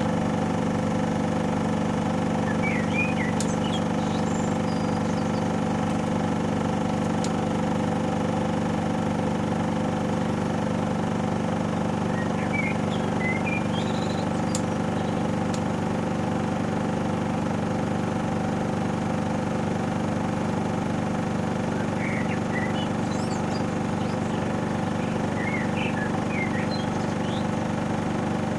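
Panasonic NA-147VB2 inverter washing machine in its final spin, the drum and motor running at a steady speed with an even, unchanging hum of several fixed tones.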